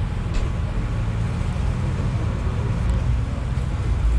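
Tractor engines idling, a steady low rumble, with a brief faint tick about half a second in.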